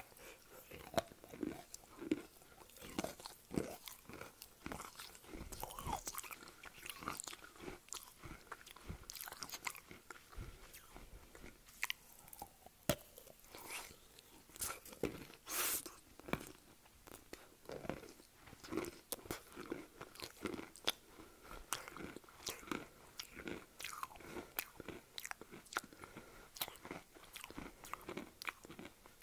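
Close-miked biting and chewing of wet chalk with mango pieces: a steady run of sharp crunches and crackles, several a second, with wetter chewing between them.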